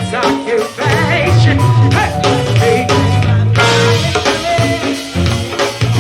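Live go-go band playing, with a sung vocal line over a driving drum kit and percussion groove.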